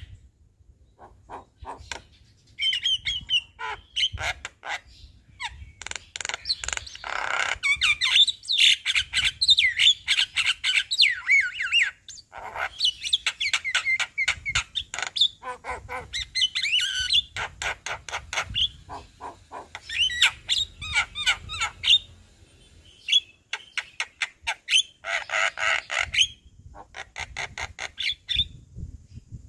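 Javan myna singing at full voice: a fast, varied stream of chirps, whistles and harsh squawks with mimicked calls mixed in. It comes in long runs, with brief pauses near the start and again about two-thirds of the way through.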